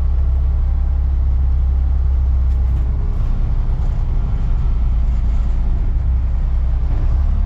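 Off-road haul truck's diesel engine running steadily with a deep low rumble, with a few faint rattles as it bumps over rough ground.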